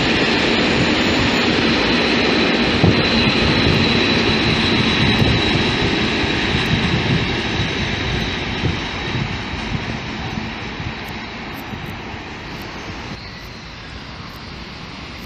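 Freight train of container flats and tank wagons rolling past, a steady noise of wheels on rail. The noise slowly fades over the last several seconds as the train draws away.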